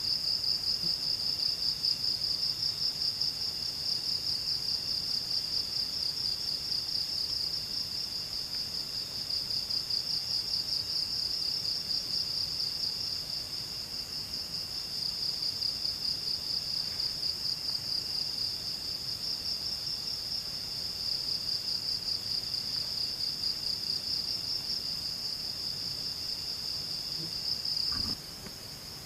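Insect chorus in the forest: a continuous high-pitched, fast-pulsing trill, dropping in level with a faint knock near the end.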